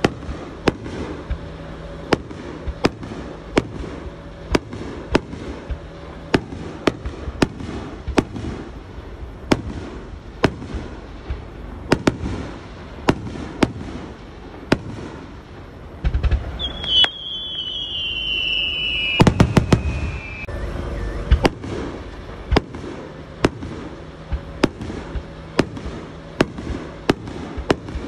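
Fireworks display: aerial shells bursting in quick succession, about two bangs a second. A falling whistle runs for about three seconds past the middle, followed by a louder, denser cluster of bursts.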